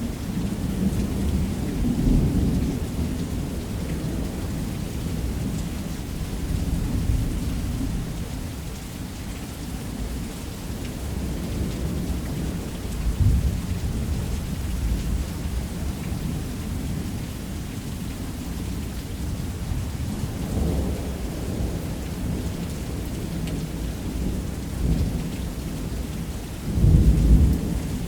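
Thunderstorm: steady heavy rain with low thunder rumbling throughout. Louder rolls of thunder come about 2 and 13 seconds in, and the loudest comes near the end.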